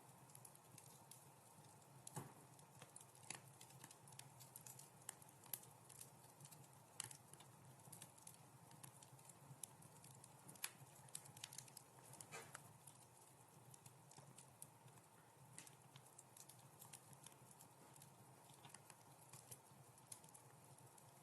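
Wood fire crackling in a fireplace: faint, irregular sharp pops and snaps over a soft steady hiss.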